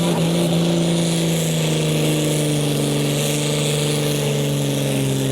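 Hot stock pulling tractor's diesel engine running hard under the load of the pulling sled, its pitch sagging slowly as the engine is pulled down.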